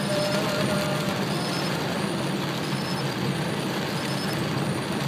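Steady noise of heavy rain on a moving car and its tyres on the flooded road, heard from inside the car, with a low rumble underneath.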